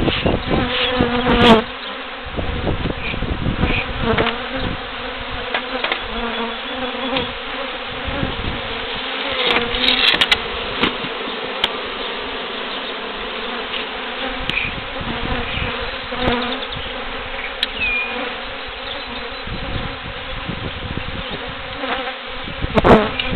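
A swarm of honeybees buzzing steadily around their broken-open hive, a dense, unbroken drone. The colony has been disturbed and is stinging.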